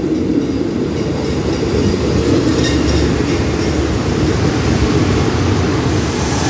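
Diesel railcar passenger train running into the station alongside the platform and slowing to stop, a steady low rumble of engines and wheels on the rails that grows a little louder as the carriages pass close.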